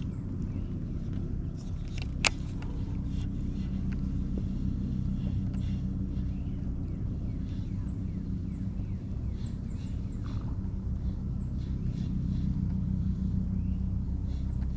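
A steady, low engine rumble with short high chirps over it and a single sharp click about two seconds in.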